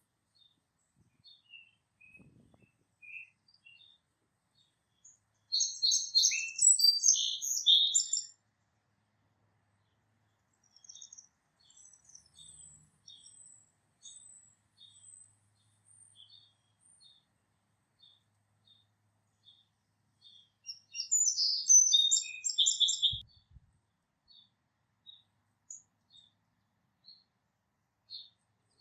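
Songbird singing two loud bursts of rapid, varied warbled notes, about a quarter of the way in and again past the two-thirds mark, with scattered short high chips from other small birds in between.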